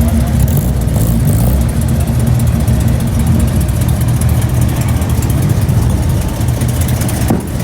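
Car engines idling close by: a loud, steady, deep rumble.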